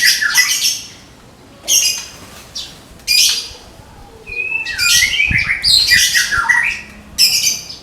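White-rumped shama (Medan-type murai batu) singing its 'tembakan' song: about five loud bursts of quick, sliding whistled and chattering phrases, separated by short pauses.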